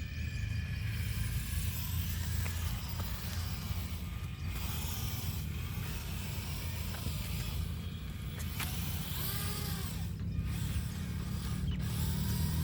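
Tractor running, with a steady low hum under creaking, rattling mechanical noise.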